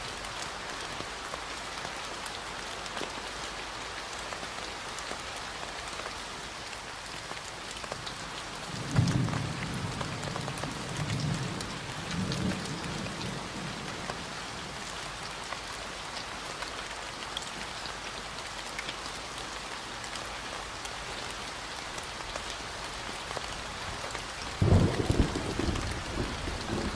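Steady rain falling, with two low rolls of thunder: one about a third of the way in, lasting a few seconds, and another starting near the end.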